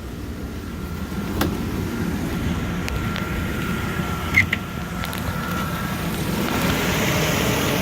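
A 2003 Mercedes ML320's 3.2-litre V6 idling steadily with the air-conditioning compressor engaged. A faint whine comes in for a few seconds in the middle, and there are a couple of light clicks.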